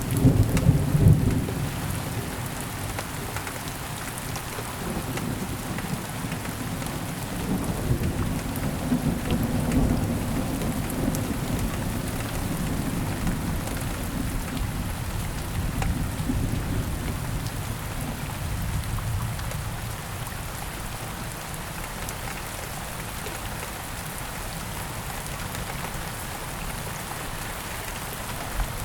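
Steady heavy rainfall with thunder: a low rumble at the start and another rolling rumble about eight to ten seconds in, then rain alone.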